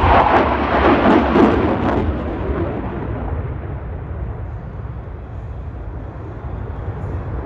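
Jet engine noise from a passing F-35A fighter's single F135 afterburning turbofan. It is a loud, deep rumble at first that fades over several seconds as the jet moves away, the higher sounds dying out first, then builds again near the end.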